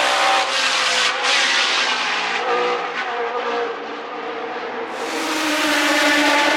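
Historic Formula One race car engines running at high revs on the circuit, the pitch shifting with the revs. The sound sags in the middle and grows louder again near the end.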